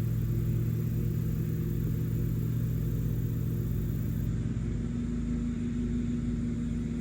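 A motor running steadily with a low hum. A slightly higher tone joins in about five seconds in.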